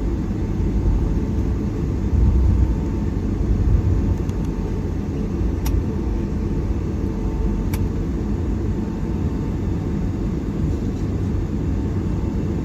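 Steady low rumble inside the cabin of a Boeing 757-300 taxiing after landing: engines at idle and the airframe rolling over the taxiway. Two faint clicks about two seconds apart near the middle.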